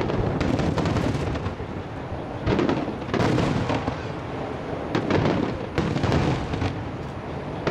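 Starmine fireworks barrage: shells bursting in quick succession, many sharp bangs and crackles overlapping over a continuous rumble. Heavier clusters of bursts come about three seconds and about five to six seconds in.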